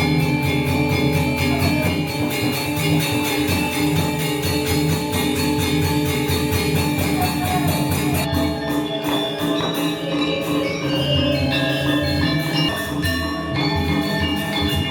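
Balinese gamelan ensemble playing: metal mallet instruments, gongs and drums. Rapid, dense strokes give way about halfway through to sparser, slower melodic notes.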